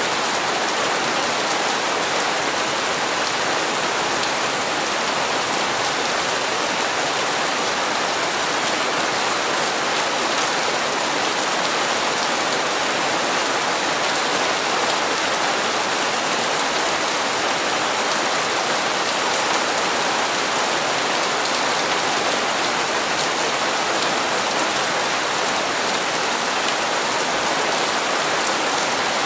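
Steady, even rain falling on hard surfaces, a continuous hiss of many drops.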